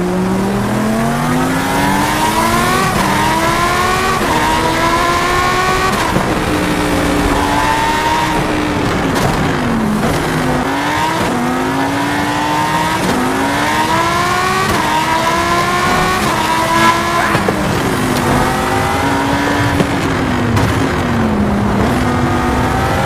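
Racing-car engine revving up through the gears: the pitch climbs, drops at each shift and climbs again, several times over.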